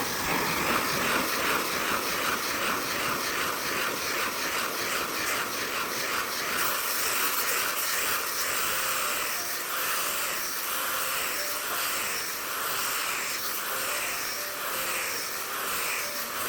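Steady, loud rushing hiss like blowing air, with a slow pulsing in it; it starts and stops abruptly.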